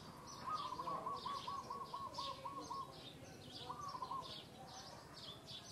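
Birds calling: one gives a quick series of about ten short notes, roughly four a second, then a shorter phrase a little later, while other small birds chirp high and busily throughout.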